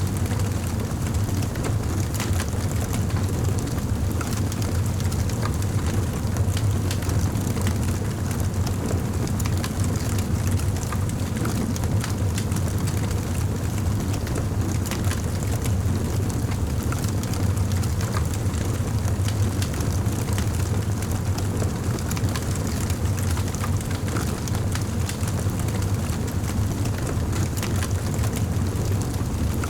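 Wood fire crackling in a fireplace: many small sharp pops and snaps over a constant low rumble of the flames.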